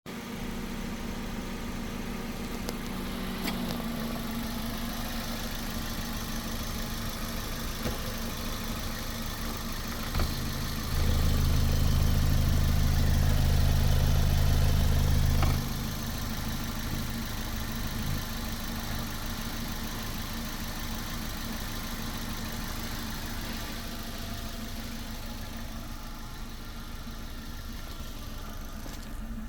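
Suzuki M16A 1.6-litre four-cylinder petrol engine idling steadily, then held at raised revs for about four seconds near the middle before dropping back to idle.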